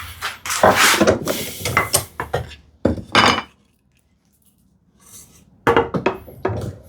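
Steel bevel-edge chisel paring and scraping the walls of a mortise in wood, in short irregular strokes with a couple of sharp knocks about three seconds in. After a brief pause the scraping starts again near the end.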